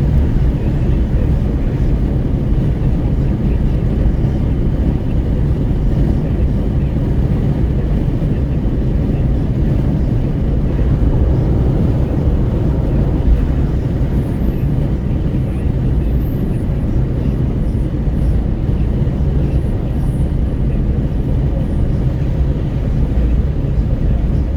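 Wind rushing through the open window of a Renault Kwid driving at highway speed, with road and tyre noise, heard inside the cabin. It is a steady, dense low rumble that does not change.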